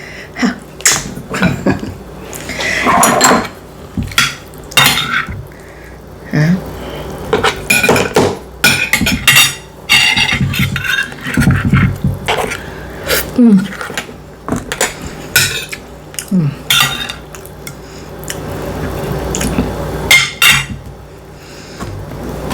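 Fork and knife clinking and scraping against a plate in quick, irregular clicks, mixed with close-miked eating sounds while a breakfast of sausage, eggs and bacon is cut up and eaten.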